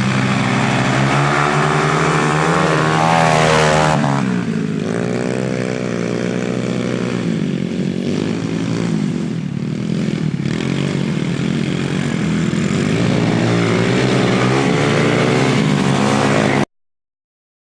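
Pit bike motorcycle engine running and revving, its pitch rising and falling with the throttle, until it cuts off abruptly near the end.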